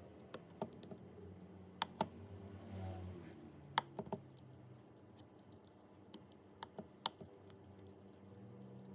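Irregular sharp clicks and taps, about a dozen spread unevenly, from small tools and parts being handled during phone repair work.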